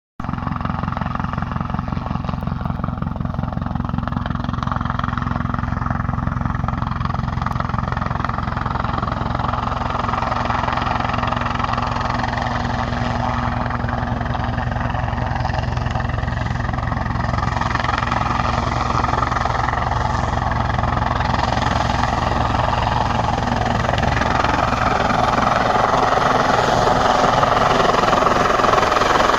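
Helicopter rotor beating steadily with engine noise underneath, growing somewhat louder over the last few seconds.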